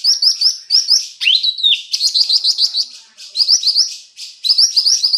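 A cucak rante songbird singing hard: fast runs of short, repeated rising chirps, about five a second, broken by brief pauses, with one longer rising-then-falling whistle a little over a second in.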